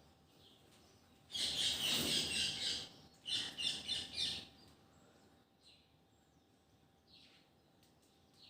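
Parrots screeching: two loud, harsh bursts of rapid chattering calls, each lasting a second or so, followed by a few faint short calls.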